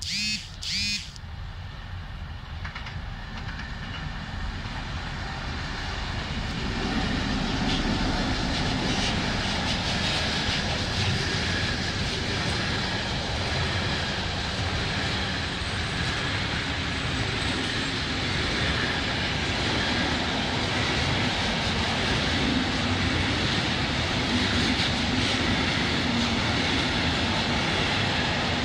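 Locomotive horn sounding two short blasts, then the rumble of a freight train of hopper wagons building and running on steadily as the wagons roll past.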